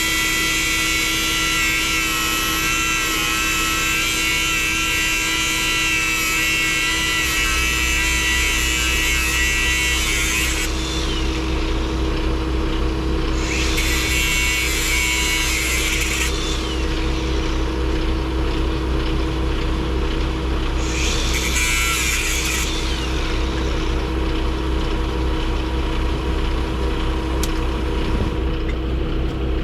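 Steady mechanical running noise, like a vehicle underway: a constant hum with a low rumble that gets stronger about a quarter of the way in. A high hiss drops out about a third of the way through, then returns twice briefly.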